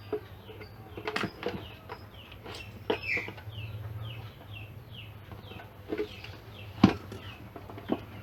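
Short falling bird chirps repeating steadily in the background, with a few sharp knocks, the loudest near the end.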